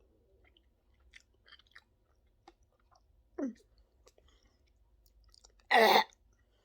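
A person chewing a mouthful of chicken nugget, with faint wet clicks and smacks from the mouth. A short falling vocal sound comes about three and a half seconds in, and a louder brief vocal sound near the end.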